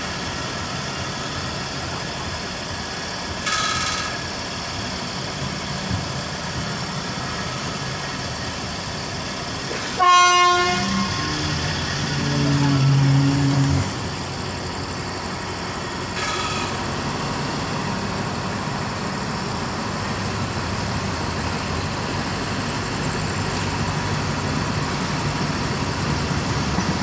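Diesel passenger train running steadily at a halt, then giving one short horn blast about ten seconds in, followed by a louder, low drone for about two seconds as it starts to pull away; the steady running continues as it gathers speed.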